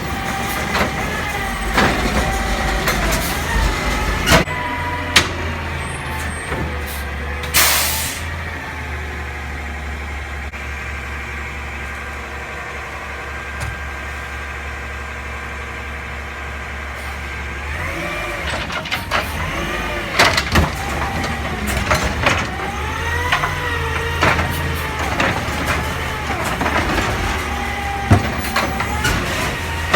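Garbage truck's engine running, its pitch rising and falling as it revs, with a loud air brake hiss about eight seconds in and several sharp metal clanks.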